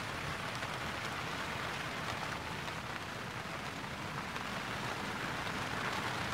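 Steady rain falling onto the open water of a lake.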